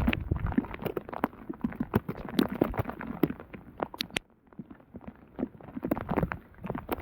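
Heavy rain, with drops striking close to the microphone as irregular sharp clicks and taps and a brief lull about four seconds in.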